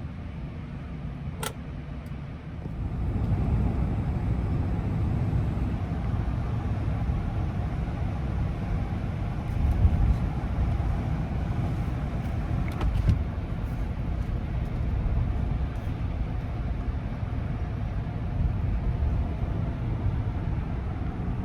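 Ram 1500 pickup driving: steady engine and road rumble that grows louder about three seconds in, with a few faint clicks.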